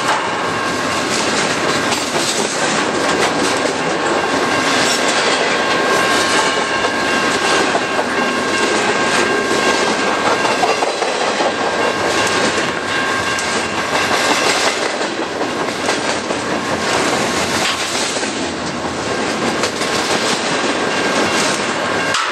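Double-stack intermodal freight train's loaded well cars rolling past close by: a steady, loud noise of steel wheels on the rails, with a faint steady whine.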